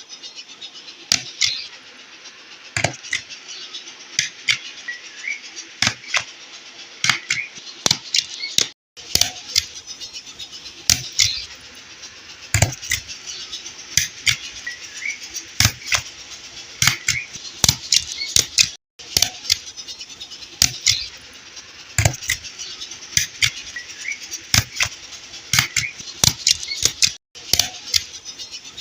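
Irregular light clicks, taps and rustles of objects being handled close to the microphone, over a steady hiss, broken by several abrupt cuts.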